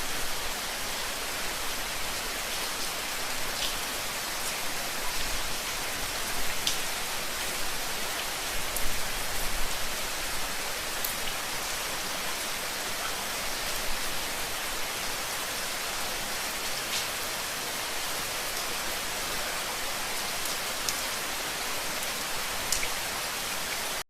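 Steady rain: an even hiss of falling rain with scattered individual drops ticking on a surface.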